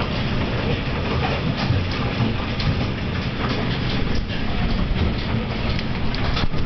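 Large hail pelting down in a dense, steady clatter of many hailstone strikes over a low rumble.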